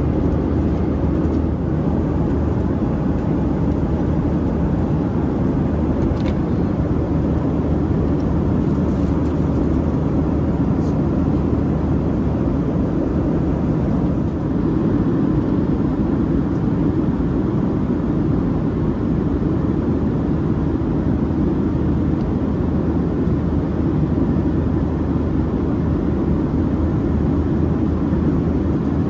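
Steady cabin rumble of a Boeing 737-800 heard from inside the passenger cabin: CFM56 engines and air-conditioning running with a low, even hum, no change in pitch or level.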